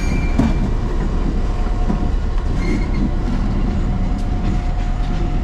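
Diesel locomotive and its train rolling past and pulling away: a steady rumble of engine and wheels on the rails, with a few wheel knocks and a brief faint squeal about two-thirds of the way in.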